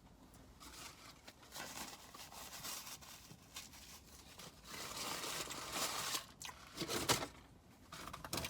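Paper fast-food wrappers and bag crinkling and rustling as they are handled, with a few sharper crackles near the end.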